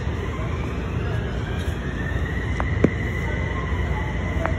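Odakyu 3000 series electric train running: a steady low rumble with a high whine that rises in pitch and then holds steady. A few sharp clicks, the loudest a little past the middle.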